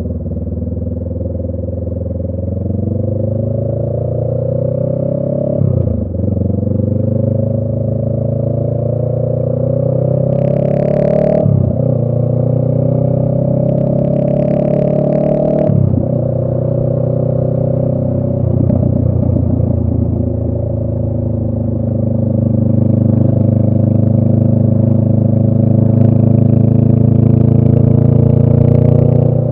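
2018 Honda Rebel 500's parallel-twin engine through a Radiant Cycles Shorty GP exhaust, accelerating up through the gears: its pitch climbs and drops sharply at each of three upshifts. It then holds a steady cruise for the second half.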